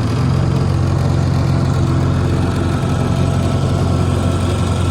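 Small lawnmower-engine outboard motor running steadily at low throttle, an even low drone.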